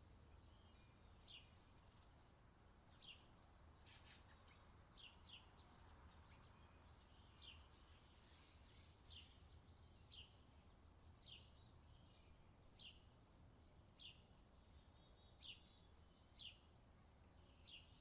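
Faint outdoor ambience of birds calling: short, sharply falling chirps repeated roughly once a second, with a few other chirps between them, over a low steady rumble.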